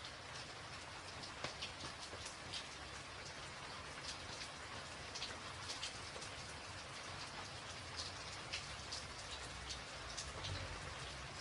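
Steady rain falling on a tin roof, a constant hiss with many sharp, irregular drop ticks on the metal.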